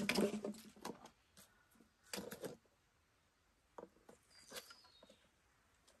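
Short bird calls in the forest: one brief call about two seconds in and a couple more between four and five seconds in, with quiet between them.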